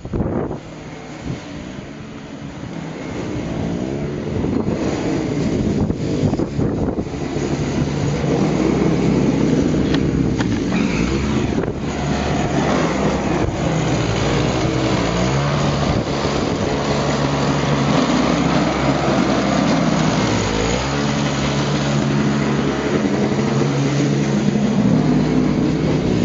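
An engine running steadily, building up over the first several seconds and then holding an even pitch.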